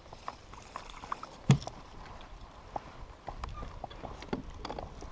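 Scattered clicks and knocks of fishing gear being handled on a kayak, with one loud thump about one and a half seconds in.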